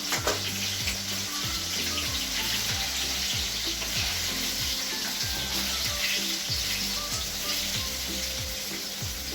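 Flour-coated chicken pieces deep-frying in very hot oil: a steady sizzle with small crackles.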